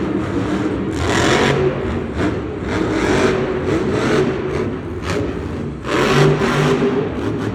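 Monster truck's supercharged V8 engine revving hard in repeated bursts. It surges loudest about a second in and again about six seconds in.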